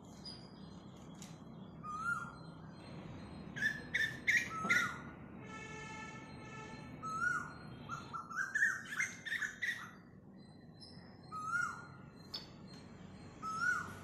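Birds chirping: repeated short calls that rise and fall, with one longer held call about halfway through.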